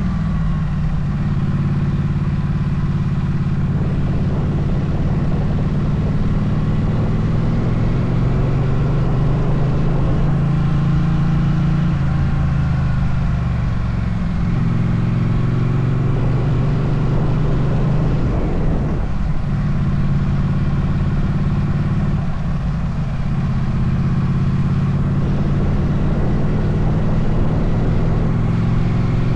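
Motorcycle engine running while riding, its note shifting up and down in pitch several times as the throttle and gears change, with steady road and wind noise.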